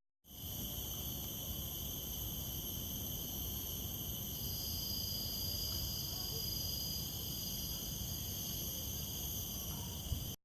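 Steady, unbroken chorus of insects in tropical forest, several high shrill layers droning together over a low rumble.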